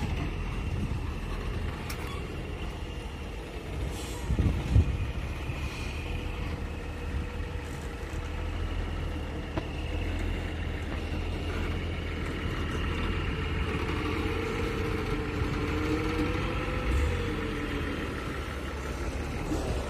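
Heavy diesel truck engine running steadily, its pitch wavering in the second half, with a loud knock about five seconds in.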